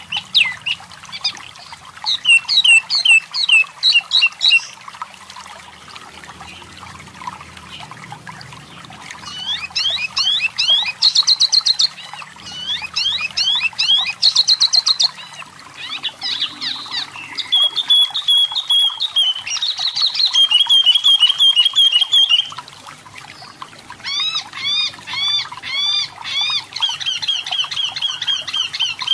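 Striped tit-babbler (tepus lurik, sold as 'wambi mini') singing: a run of phrases made of fast repeated notes, some rising chirps and some steady trills, with short pauses between phrases.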